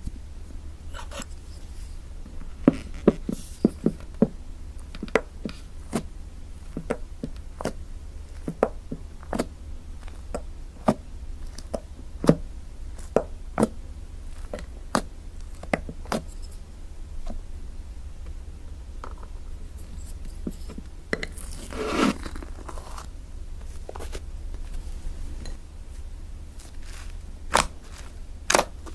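Fluffy homemade slime being pressed and worked by hand, giving an irregular string of sharp sticky clicks and pops, with one longer scraping squish about three quarters of the way through.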